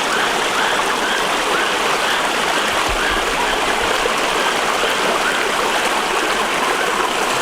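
Waterfall and stream water rushing in a steady, unbroken wash.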